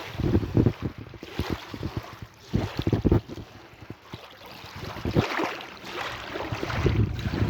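Sea waves washing, with wind buffeting the microphone in irregular low thumps; the hiss of a wave's wash swells about five seconds in.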